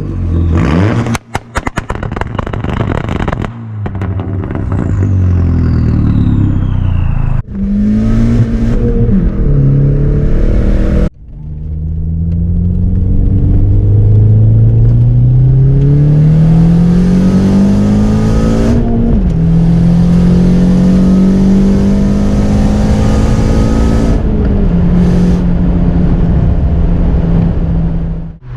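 VW Mk4 Jetta 1.8T turbocharged four-cylinder with a GT28R turbo, pulling hard at low boost (45% duty cycle, about 9–10 psi), heard from inside the cabin. Short cut-together bursts of engine revving come first. Then the engine pitch climbs steadily through a gear, drops at an upshift about two-thirds of the way in, and drops slightly again near the end.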